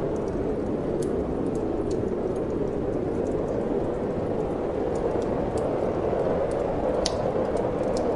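Steady wind rushing, over the scattered small crackles and pops of a wood fire burning in a fireplace; one sharper pop about seven seconds in.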